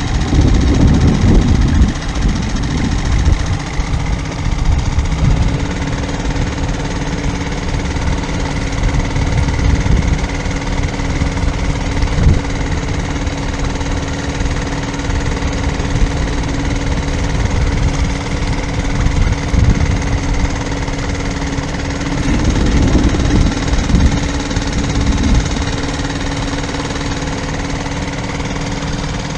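A sailboat's inboard diesel engine running steadily, with a steady hum and low rumble; two louder low surges, near the start and about two-thirds through.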